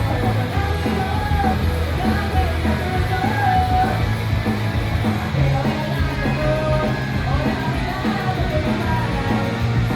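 Live rock band playing a song: sung lead vocals over electric guitars, bass guitar, keyboard and drums, steady and loud throughout.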